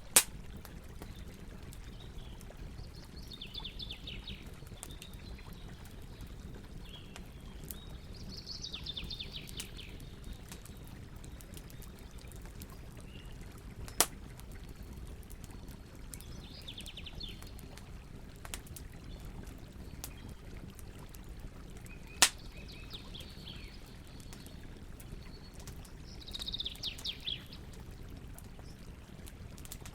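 Campfire burning with a steady low hiss and scattered crackles, three of them loud sharp pops. Birds chirp in short trilling phrases every few seconds.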